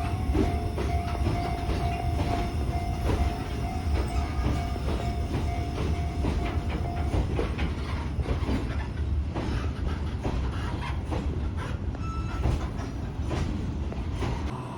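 Chichibu Railway electric train running past, a steady rumble with its wheels clattering over rail joints, the clicks coming thicker in the second half. A steady high tone sounds through the first half and stops about halfway.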